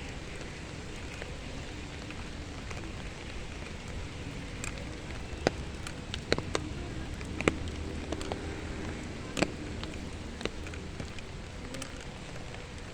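Steady outdoor rushing noise, with a handful of sharp clicks or snaps through the middle.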